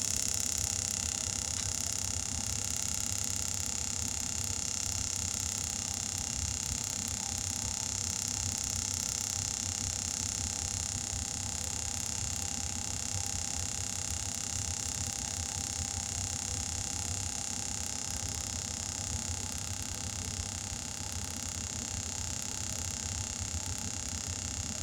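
Compressed air hissing steadily into a car tire through the air chuck as it inflates to seat the bead, with a low rumble underneath.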